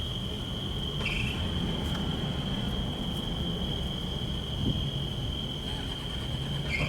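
A vehicle's engine running with a steady low rumble, and a continuous high-pitched tone over it.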